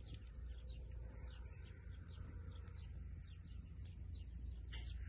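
Birds chirping: many short, falling chirps, several a second, over a steady low rumble, with a single sharp click near the end.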